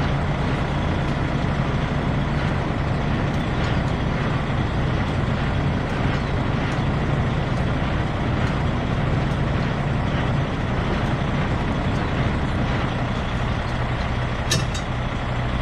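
Semi-truck's diesel engine idling steadily with a constant low hum. A short sharp click comes near the end.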